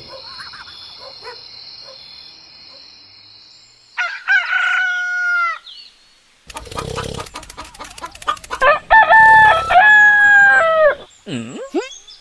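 Rooster crowing twice, a morning-wake-up sound effect. Each crow is one long call that rises and then falls, the second longer and louder. Short swooping cartoon sounds follow near the end.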